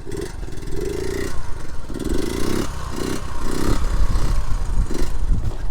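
Small single-cylinder four-stroke engine of a Honda Monkey Z50 J1 running under way, its pitch rising and falling several times as the throttle is worked. A low wind rumble sits on the microphone underneath.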